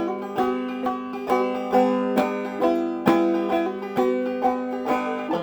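Five-string banjo played clawhammer style, an instrumental passage of plucked notes and strummed brushes over ringing drone strings, with no singing.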